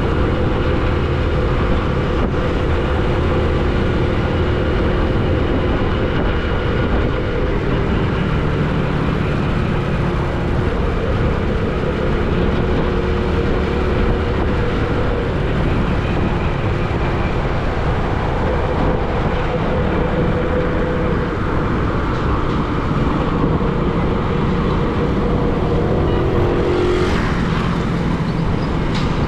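Steady road-traffic noise with a running vehicle engine humming under it. A vehicle rushes past near the end.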